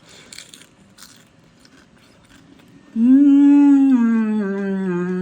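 A few soft chewing and crunching sounds of food being eaten. About three seconds in, a long, loud closed-mouth "mmm" hum of enjoyment starts, sliding slowly lower in pitch.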